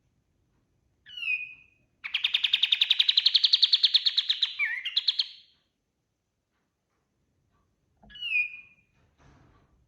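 Kapas tembak songbird singing: a short dropping whistle about a second in, then a fast rattling trill of about nine notes a second for some three seconds, and another short dropping whistle near the end.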